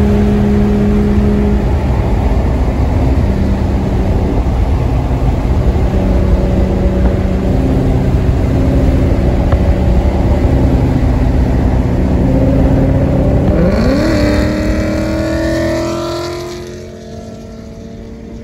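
Car engine running under way, its tone shifting in steps, then revving up sharply about fourteen seconds in before fading away a couple of seconds later.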